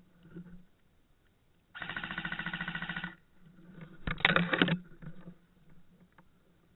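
Airsoft gun firing two fast full-auto bursts: a rattle of just over a second, then, after a sharp click about four seconds in, a shorter, louder burst.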